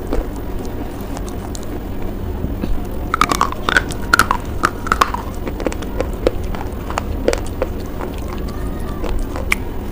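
Crisp crunching and biting of a hard, chalky white bar, with sharp cracks clustered about three to five seconds in over a steady low background hum.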